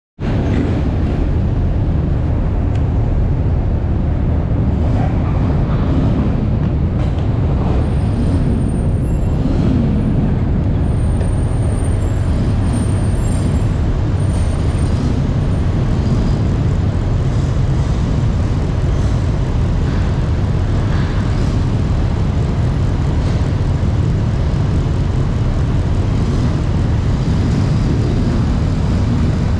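Steady, loud low rumble of idling vehicle and ship engines aboard a ferry waiting to unload, with a few faint high squeaks in the middle.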